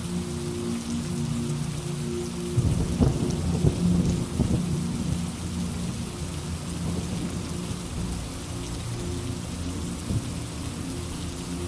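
Steady rain with a crackling thunderclap about two and a half seconds in that rumbles on for a couple of seconds.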